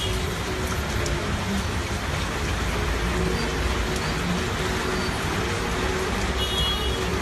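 Heavy rain pouring down in a steady, even hiss, with traffic running underneath.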